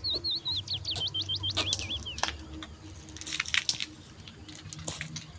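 A songbird singing a quick run of whistled notes that falls in pitch over about two seconds, alongside scattered clicks and knocks and a few short scraping noises about three seconds in.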